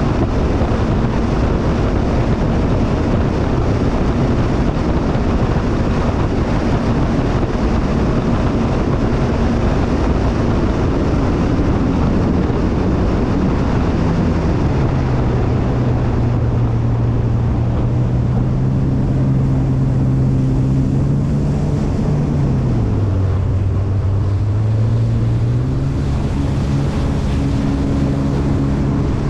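Jet ski engine running under way, with wind and water rushing. The engine note dips briefly about three-quarters of the way through, then picks back up.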